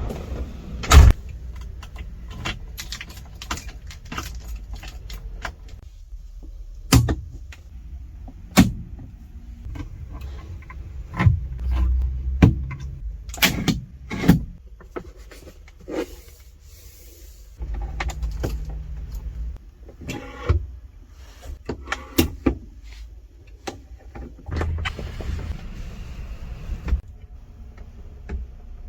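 A 1970 Volkswagen Variant with its 1600 cc air-cooled engine: a low, steady engine rumble that swells twice, broken by many sharp clicks and knocks from the car.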